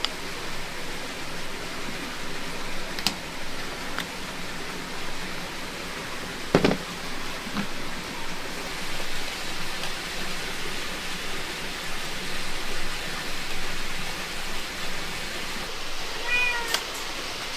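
Steady hiss of heavy rain, broken by a couple of sharp knocks, with a short wavering animal call near the end.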